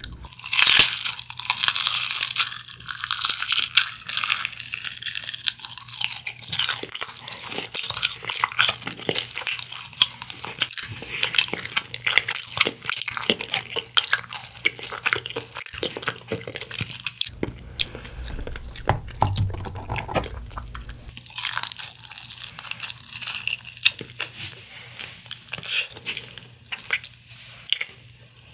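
Close-miked biting and chewing of crispy honey-glazed fried chicken wings and drumsticks. A crunchy bite about a second in is the loudest moment, followed by steady crackling, wet chewing.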